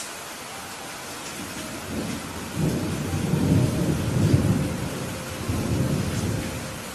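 Steady rain falling, with a roll of thunder that builds about two seconds in, rumbles loudest in the middle and dies away near the end.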